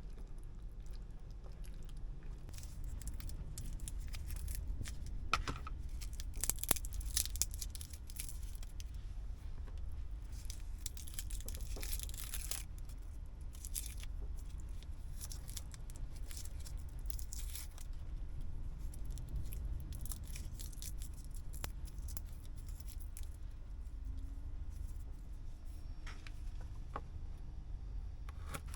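Packaging being torn and crinkled in several short bursts, over a steady low hum.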